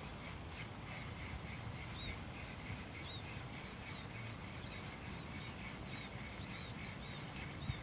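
Small birds chirping faintly, short high calls repeating over and over, over a low steady outdoor rumble, with a single sharp click near the end.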